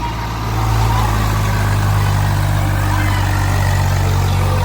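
Heavy diesel engine of a tractor or backhoe loader running steadily at a low, even pitch, growing slightly louder about half a second in.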